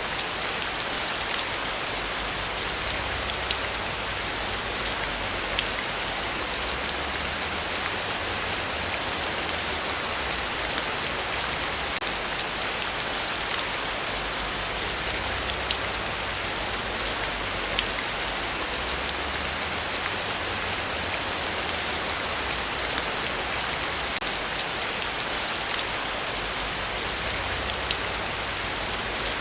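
Heavy rain falling steadily, a dense even hiss with the fine patter of individual drops striking the surface.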